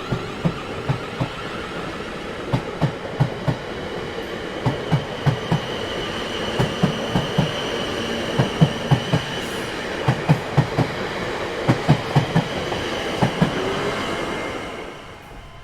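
Train rolling past over rail joints: clickety-clack in groups of about four knocks, roughly every two seconds, as the wheels of successive cars cross, over a steady rolling rumble with a faint whine. It fades away near the end.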